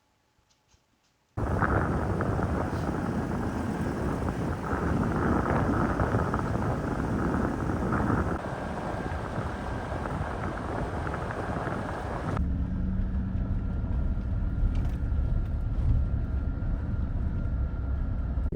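A pickup truck driving, with steady engine and road noise. It starts abruptly after a second or so of silence and changes to a lower, steadier hum about twelve seconds in.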